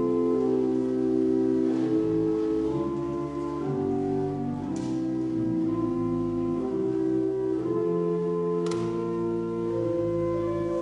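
Organ playing slow, held chords over a bass line, the chords changing every second or two.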